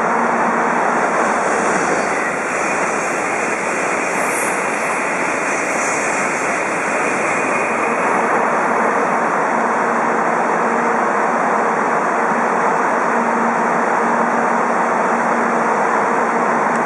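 Series N700 Shinkansen bullet train passing through the station at high speed: a loud, steady rushing noise that holds without a break, with faint humming tones coming and going.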